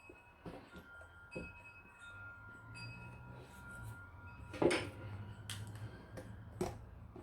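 Small metal clock parts being handled, clinking and knocking together, with a metallic ringing that hangs on after some of the knocks; the loudest knock is a little past halfway, with another near the end.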